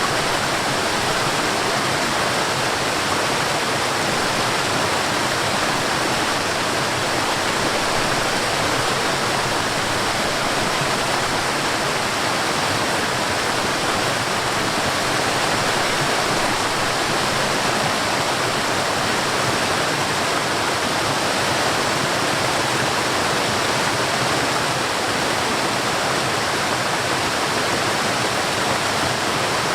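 Forest waterfall: water falling and rushing in a steady, unbroken roar of noise with no change in level.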